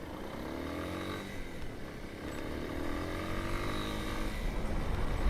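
Motorcycle engine accelerating under the rider, its pitch rising twice with a gear change at about two seconds in, over low wind rumble.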